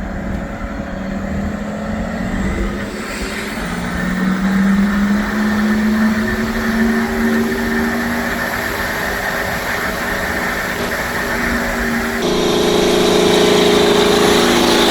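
BMW 530d's straight-six diesel engine running under acceleration, its note rising a few seconds in and then holding steady.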